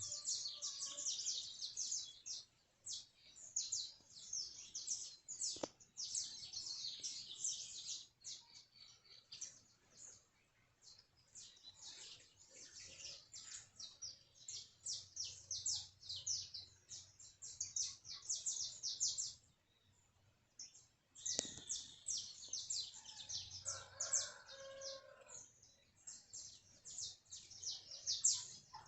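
Small birds chirping in a dense, rapid stream of high, short chirps. The chirping thins out briefly about ten seconds in and pauses about twenty seconds in before resuming.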